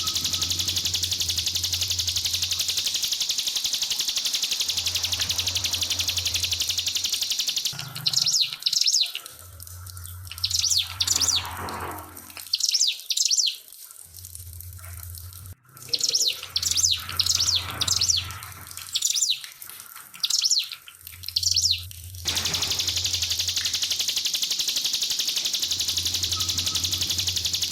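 Trickling water at first, then a ciblek (prinia) singing from about eight seconds in: loud bursts of rapid, sweeping high notes for about fourteen seconds, before the trickling water returns. A low hum comes and goes every few seconds throughout.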